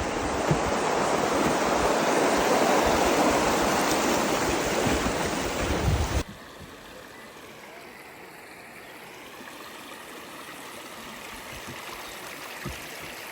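Loud, steady rush of flowing water. It cuts off abruptly about six seconds in, leaving a much quieter steady hiss.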